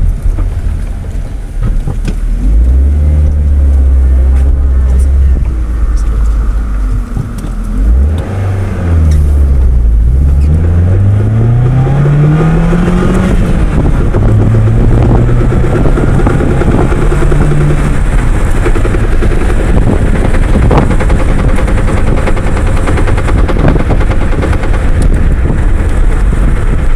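2000 Mazda Protege with a manual gearbox under way: its engine runs steadily, then rises in pitch for several seconds as it accelerates, with a shift in pitch about halfway through that fits a gear change.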